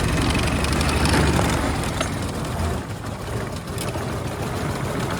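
Brush Runabout's single-cylinder engine running hard as the car accelerates in a low gear, a steady low chugging rumble with road noise.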